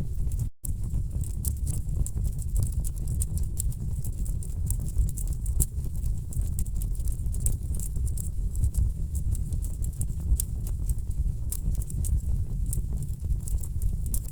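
Wood fire crackling in a fireplace: a steady low rumble of burning logs with many irregular sharp pops and snaps. The sound cuts out completely for a split second about half a second in.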